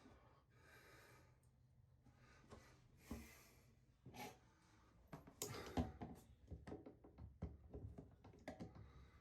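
Faint breaths, then a run of scattered clicks and knocks, the loudest a little before the six-second mark, as a vice grip (locking pliers) works against a shower floor drain, pushing it down to open a gap and pull out the old seal.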